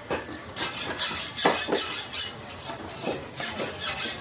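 Quick, repeated rasping scrapes, several strokes a second.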